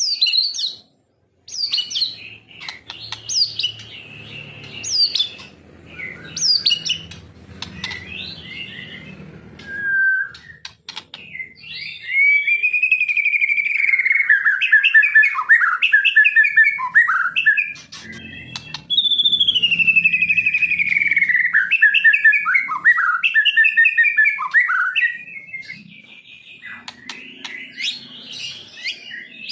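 Songbird singing loudly: sharp, quickly rising whistled notes at first, then two long unbroken runs of fast warbling notes that slide gradually downward in pitch.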